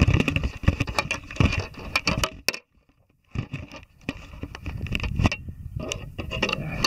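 Handling noise from a camera that has been set down while a luggage strap is worked: irregular knocks, scrapes and rustling, pausing briefly near the middle.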